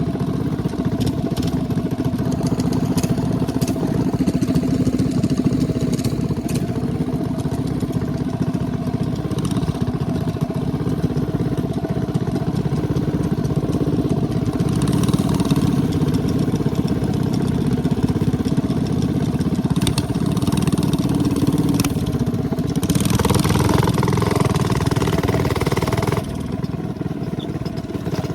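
212cc single-cylinder minibike engine running steadily while riding. A louder rush of noise comes in for a few seconds near the end, then drops away.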